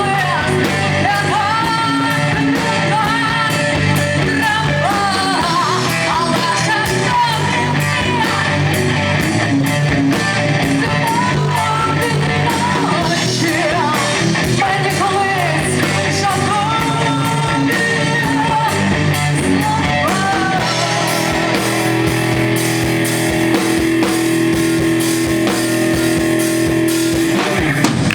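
Rock band playing a song, with a sung vocal line over electric guitar. About twenty seconds in the melody stops and the band holds one long steady note.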